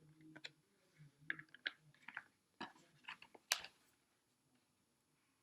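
Light clicks and taps from handling the headphones' charging case and its magnetic charging connector, several in the first four seconds, then quiet.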